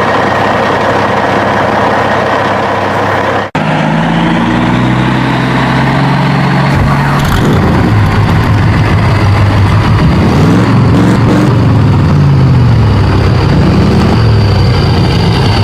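Heavy truck engine running, broken by a sudden cut about three and a half seconds in, then revving up and down several times.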